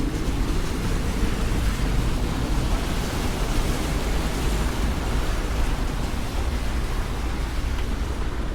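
Loud, steady city street noise on a wet day: a deep rumble under an even hiss, with no single event standing out.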